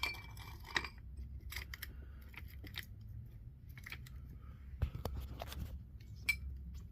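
Metal parts of a Sure-Grip limited-slip differential case being handled and fitted together: scattered light metallic clicks and clinks, a few of them ringing briefly, with a sharper knock about five seconds in.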